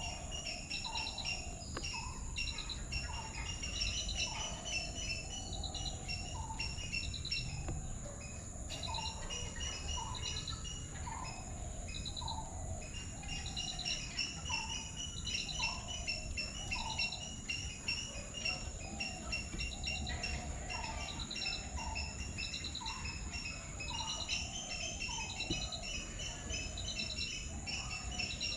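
Birds calling and insects chirping together: short calls repeat about once a second over rapid pulsed chirps, with a steady high-pitched insect drone underneath.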